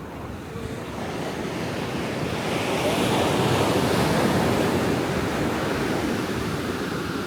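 Ocean waves breaking on the beach: a wash of surf that builds, is loudest midway, and eases off.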